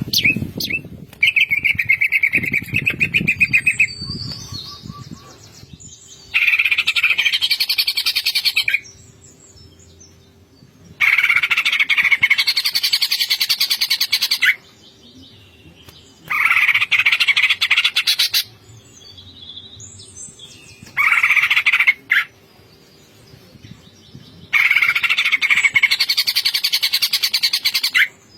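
Cucak ijo (green leafbird) singing in its fast, rattling 'ngentrok' style: about six bursts of rapid chattering song, each two to four seconds long, with short pauses between.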